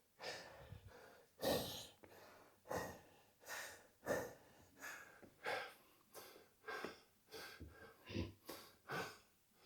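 A man panting hard, rapid, regular breaths of about three every two seconds, winded from a high-intensity conditioning workout.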